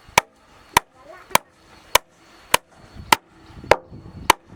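Hammer blows on wood at an even pace, eight sharp strikes a little over half a second apart, each with a short ring: nails being driven into wooden floor planks.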